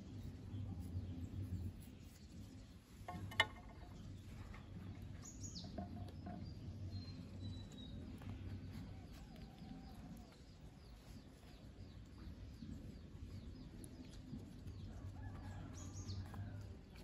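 Faint outdoor bird calls, a few high chirps sweeping downward, over a low steady hum, with one sharp click a little over three seconds in.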